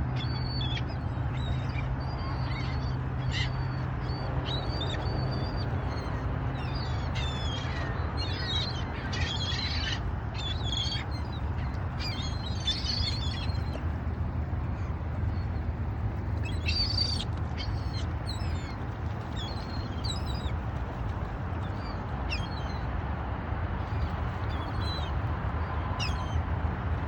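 Small birds chirping and calling in short, high notes, many in quick runs and some sweeping downward, scattered through the whole stretch over a steady low rumble.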